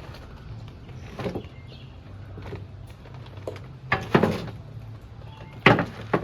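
Irregular knocks and scrapes from a bench end piece being handled and cleaned, the loudest about four seconds in and again near six, over a steady low hum.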